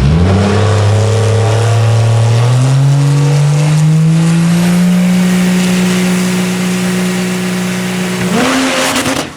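6.7-litre Cummins diesel in a Mustang drag car launching and pulling hard, its note climbing steadily for several seconds and then holding. Near the end the pitch suddenly flares up with a short loud blast of noise, and the sound drops away abruptly, which fits the engine letting go as the block splits at the mains.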